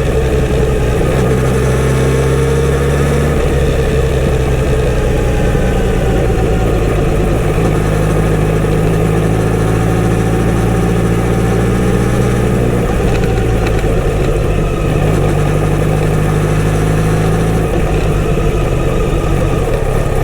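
Kawasaki Z900RS inline-four engine running through its stock exhaust, a steady low note that steps up and down in pitch a few times.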